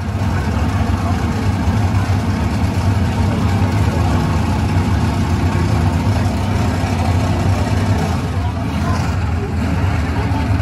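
Several demolition derby cars' engines running and revving together in the arena, a steady loud engine sound with no distinct crashes.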